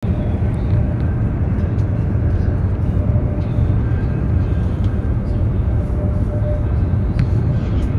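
Steady low rumble of a high-speed train at speed, heard from inside the passenger cabin, with a few faint clicks near the end.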